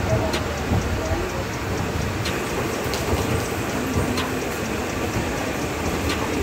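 Passenger train coaches rolling slowly past along the platform: a steady rumble with a few sharp clicks, one to two seconds apart, of wheels going over rail joints.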